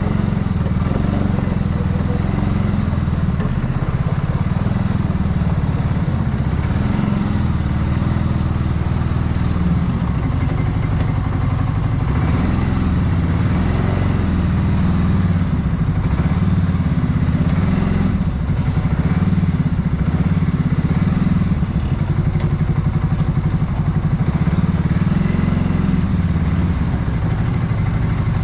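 Snowblower's small engine running steadily under load, its pitch drifting slightly up and down.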